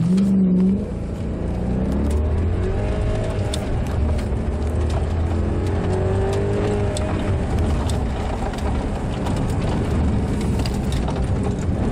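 Maserati Quattroporte V8 accelerating, heard from inside the cabin. The engine note climbs sharply right at the start, rises again a few more times over the next several seconds, then runs steadily with road noise.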